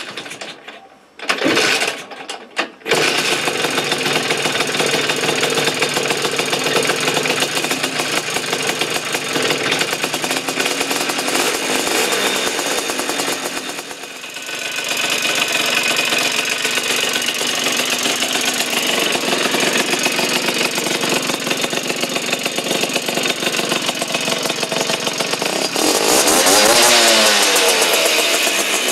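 Vespa single-cylinder two-stroke engine with a Polini 130 cc kit and 24 mm carburettor starting after a couple of short bursts, then running steadily. It drops back briefly about halfway and is revved up near the end.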